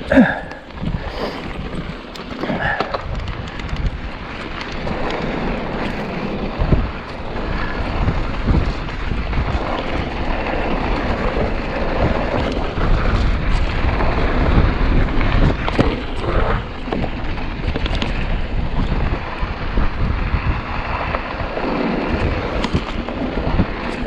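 Wind buffeting the microphone while riding a rough trail, under a constant rumble with many small knocks and rattles from the ground. A sharper knock comes right at the start.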